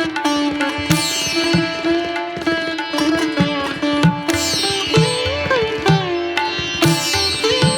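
Background instrumental music in Indian classical style: a sitar-like plucked melody with sliding, bending notes over a steady hand-drum beat.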